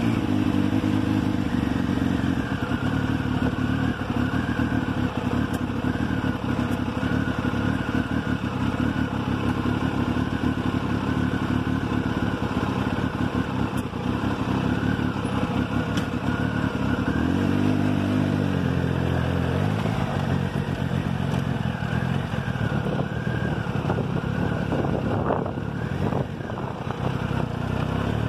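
Motorcycle engine running under way, heard through a handlebar-mounted phone's microphone with steady wind and road noise. About two-thirds of the way through, the engine pitch rises and falls briefly as it revs up and eases off.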